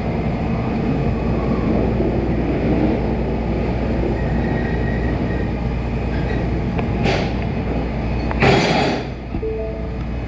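Tow truck running, a steady low engine rumble with heavy road and chassis noise. Two short hissing bursts come near the end.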